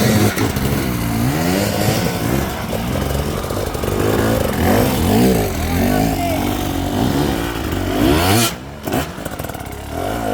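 Enduro dirt bike engine revving up and down in quick throttle blips, the pitch rising and falling every second or so, dipping briefly near the end.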